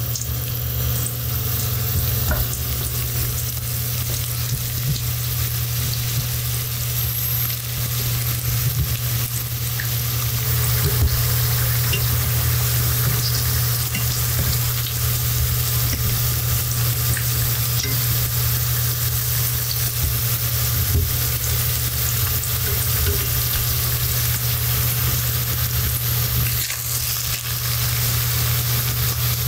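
Sliced sweet potato frying in cooking oil in a pan, a steady sizzle, with a steady low hum underneath and a few light clicks.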